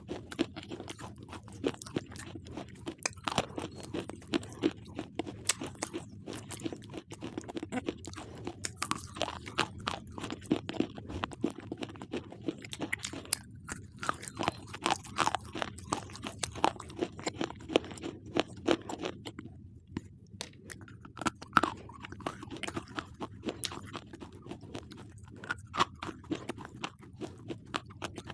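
Slate pencils being bitten and chewed, a dense run of sharp crunches and crackles, with a brief pause about twenty seconds in.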